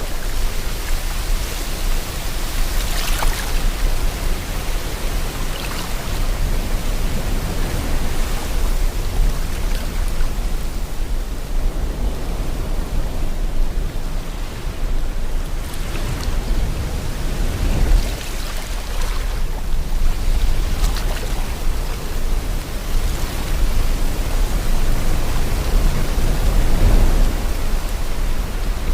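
Sea water washing and wind blowing: a steady rushing with slow swells, stronger surges a few seconds in, around the middle and near the end, over a low rumble.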